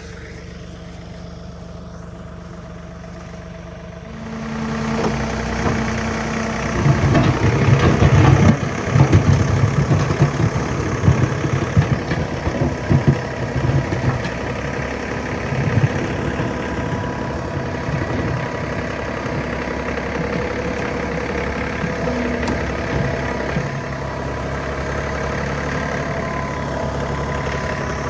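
John Deere 3039R compact tractor's three-cylinder diesel engine running at a low idle, then throttling up about four seconds in. It works under load with several seconds of irregular louder clatter, then settles into a steady run.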